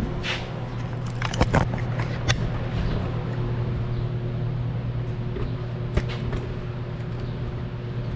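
A few sharp clicks and knocks from handling pulley-and-rope rigging: a cluster about a second in, another shortly after, and one more past the middle. Under them runs a steady low hum.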